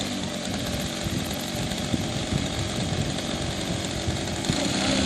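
Radio-controlled model airplane's motor running steadily, with wind buffeting the microphone.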